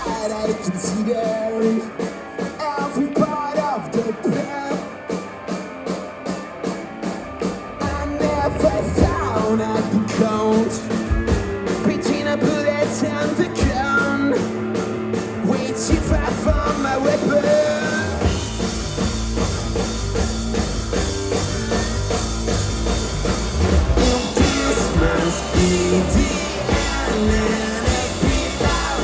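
Rock music: a quieter opening with rapid, even ticking on top, then the full band comes in louder about eight seconds in, with heavy bass later on.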